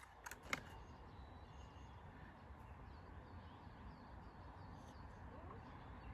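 Near silence: faint outdoor background with a row of faint, repeated high chirps in the middle and two light clicks near the start.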